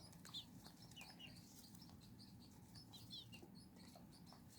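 Faint peeping of young chicks: a handful of short, high chirps that fall in pitch, scattered through, with a few small clicks.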